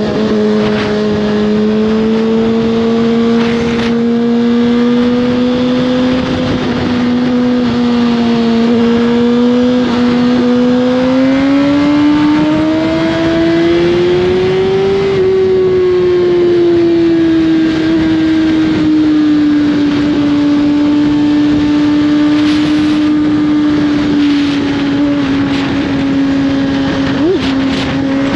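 2021 Suzuki GSX-R1000's inline-four engine through an Austin Racing slip-on exhaust, running steadily under way. The revs climb gradually about halfway through, then hold steady.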